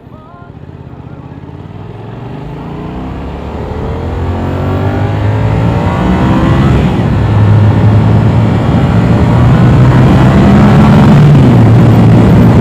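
Motorcycle engine, a Yamaha R7's parallel-twin, accelerating hard: its note climbs in pitch and grows steadily louder with rising wind rush over the first several seconds, then holds loud and steady at speed.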